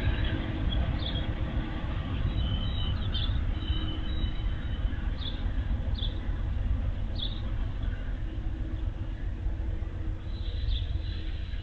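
Low rumble of an Amtrak train's diesel locomotives as the train pulls away, with a small bird chirping briefly about six times.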